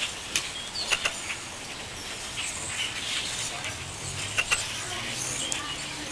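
A large flock of grackles calling: many overlapping short, harsh squeaks and sharp clicking chacks, scattered and irregular.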